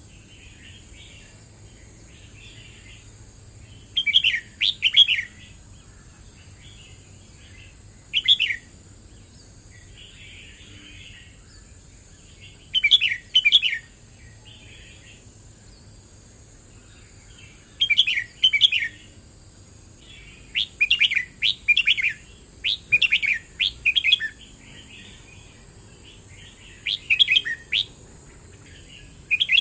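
Red-whiskered bulbul singing short, quick warbled phrases every few seconds, with a longer run of phrases in the last third. Fainter song can be heard in the gaps.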